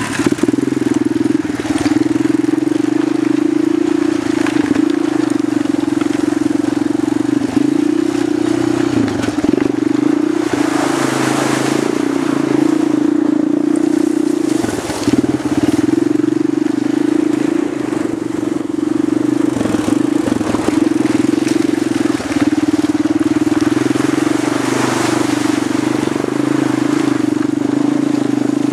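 A 250 cc ATV engine running steadily under way, its note dipping briefly a few times as the throttle eases off.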